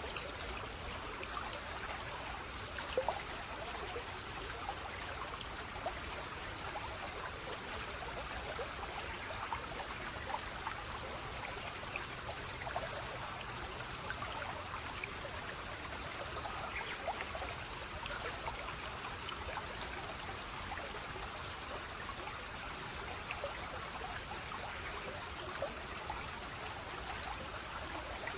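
Water flowing in a small stream, a steady trickling with many small splashes and drips.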